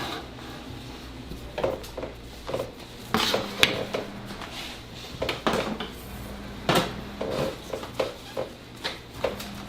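Irregular clinks and knocks of kitchen utensils and pans being handled, over a low steady hum.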